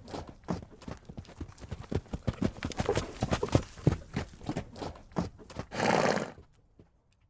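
Horse hooves striking the ground in a quick, irregular run of clip-clops, then one short, loud vocal sound from a horse near the end before it goes quiet.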